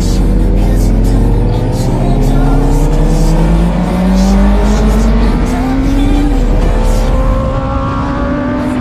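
Inline-four sport motorcycle engine accelerating hard, its pitch climbing steadily for about six seconds, dropping sharply at an upshift, then rising again. Music plays underneath.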